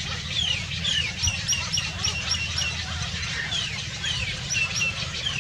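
Small birds chirping: quick down-slurred notes and, about a second in, a rapid run of five short repeated chirps, over a steady low rumble.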